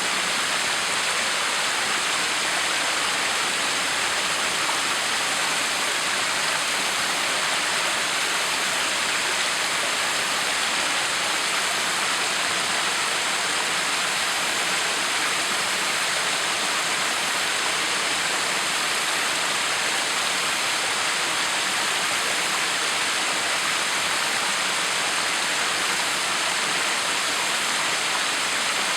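Backyard waterfall running: a steady, unchanging rush of falling water.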